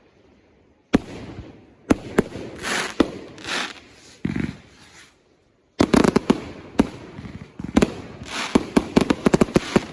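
Consumer fireworks going off: sharp bangs, each followed by a hissing whoosh, a few seconds apart at first, then a rapid volley of many bangs from about six seconds in.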